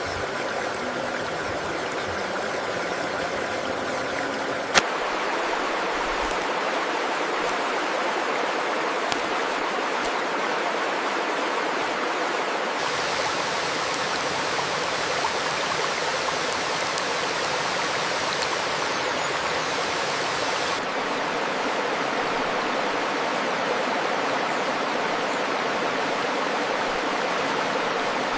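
Steady rush of running water, like a stream. About five seconds in there is a single sharp click, after which the rushing changes character, and it changes again twice more.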